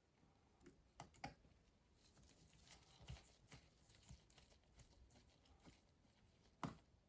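Faint, scattered small clicks and taps of hand tools and parts being handled on an opened MacBook Pro during a battery replacement, with a pair about a second in and a sharper tap near the end.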